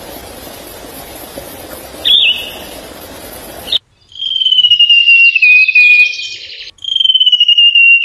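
A songbird calling: one short chirp about two seconds in over a steady background hiss, then, after a sudden cut just before the middle, two long high trills that slowly fall in pitch.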